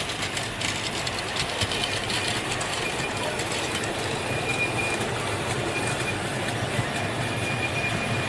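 Miniature railway train running along the track, its wheels clicking over the rails, with a thin high wheel squeal setting in about three seconds in.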